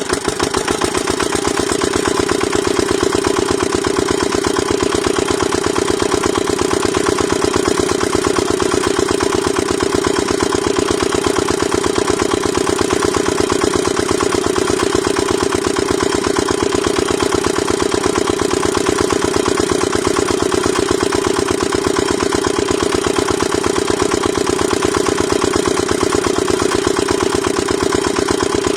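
Small engine of a mini water-pump model running steadily at a fast idle, with rapid, even pulses.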